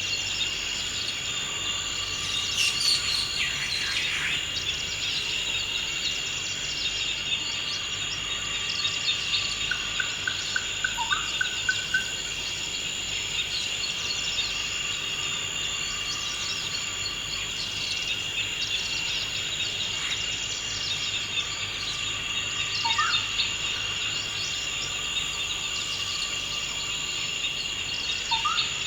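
Forest ambience: a steady, high-pitched chorus of insects runs throughout, with birds calling over it — scattered chirps, a rapid trill about a third of the way in, and short rising calls now and then.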